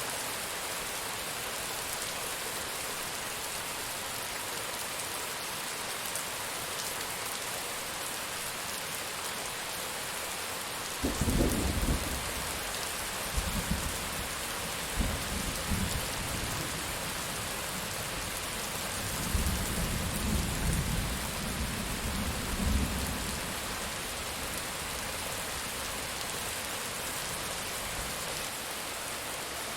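Steady heavy rain with rolling thunder: a sudden low crack and rumble about eleven seconds in, further rumbles over the next few seconds, and a second long roll of thunder around the two-thirds mark.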